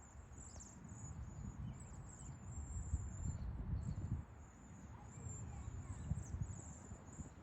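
Small birds twittering in a fruit tree: many short high-pitched notes, pausing briefly about four seconds in, over an irregular low rumble.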